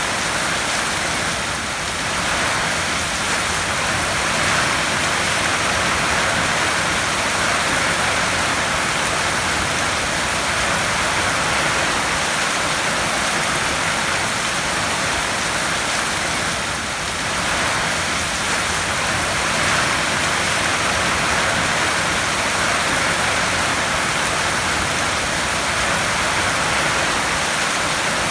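Heavy rain falling on a tin roof: a dense, steady hiss of countless drops, strongest in the upper-middle range, swelling and easing gently every few seconds.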